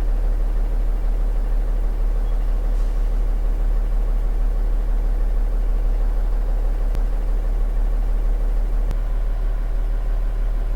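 A 20 ft box truck's engine idling: a steady, even low hum. Two faint clicks come in the second half.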